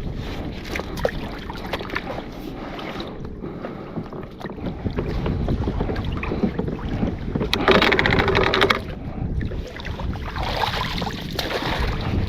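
Water slapping and splashing around a kayak, with wind buffeting the microphone and small knocks. About eight seconds in there is a louder burst of splashing that lasts about a second.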